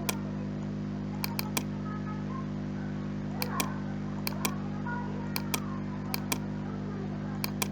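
Computer mouse clicking in quick pairs and triplets, roughly once a second, over a steady electrical hum.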